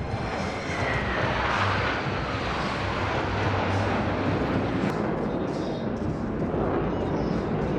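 Jet aircraft flying past: continuous loud jet noise, with a whine that falls steadily in pitch over the first two or three seconds as the aircraft goes by. The jets are the Black Eagles' KAI T-50B trainers.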